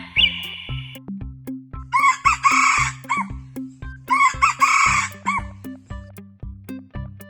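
Rooster crowing twice, each crow about a second long, over background music with a steady beat.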